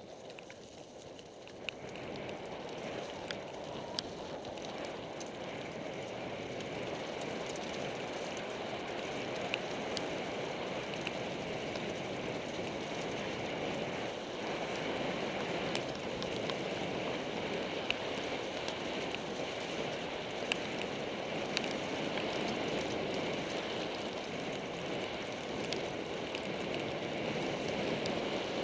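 Mountain bike rolling downhill on a wet trail: a steady rushing of tyres and rain that builds over the first few seconds, with sharp knocks and rattles from the bike now and then.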